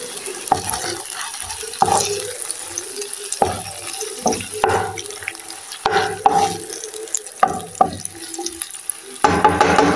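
Bacon, onion, garlic and red pepper sizzling in hot oil in a frying pan, with a wooden spoon stirring and scraping the pan in short, irregular strokes.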